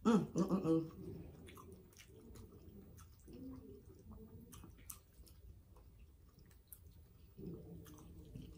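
A woman chewing a mouthful of soft chicken pot pie close to the microphone, with faint wet clicks and smacks. A loud 'mmm' hum of enjoyment opens it, with shorter hums about three seconds in and near the end.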